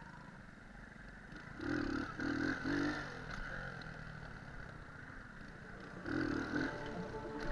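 Alfa moped engine running, getting louder twice: once about two seconds in and again about six seconds in.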